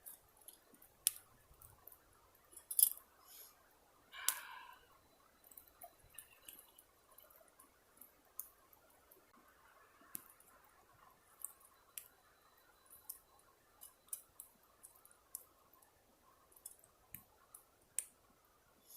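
Small pine-wood campfire crackling, with irregular sharp pops and snaps about once a second, and a brief rustle or clatter about four seconds in.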